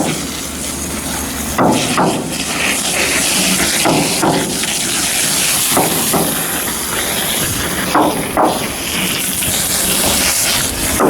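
Shipyard fitting-out work: irregular metal knocks, several coming in pairs, over a steady hiss.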